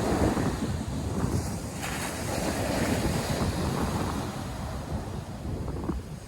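North Sea surf washing onto the beach in a continuous rush, with wind buffeting the microphone.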